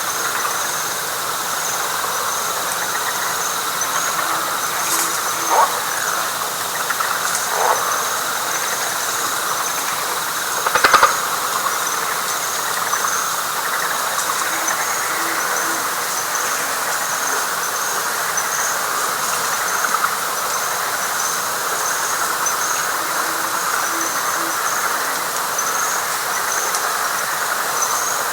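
Night chorus in a Florida wet pine flatwoods: a dense, steady chorus of frogs and insects, with an insect's rapid pulsing call high above it. Faint low hoots come through a few times, and brief sharp calls stand out, the loudest about eleven seconds in.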